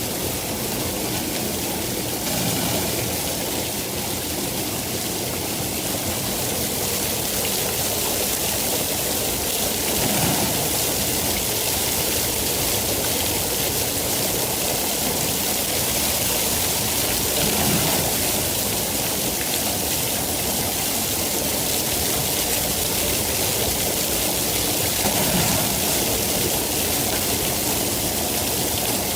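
Steady heavy rain, a dense even hiss, with a few brief soft swells.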